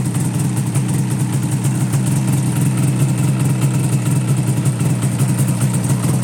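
2000 Yamaha Phazer 500 snowmobile's two-stroke twin engine idling steadily with a fast, even pulse, running well on its freshly replaced pistons.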